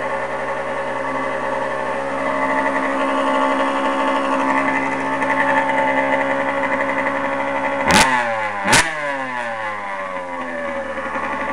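Suzuki RM80's 80cc two-stroke single-cylinder engine, already warmed up, running steadily and rising slightly in revs, then blipped hard twice in quick succession about eight seconds in, the revs falling away after each before it settles back to a steady run.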